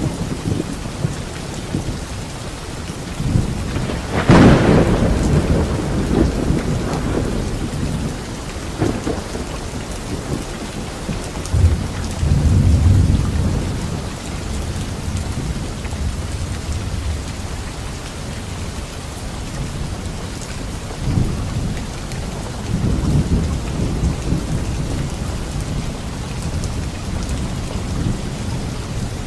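Steady rain falling, with thunder: a sharp thunderclap about four seconds in that rumbles on for several seconds, and further low rolls of thunder around the middle and later on.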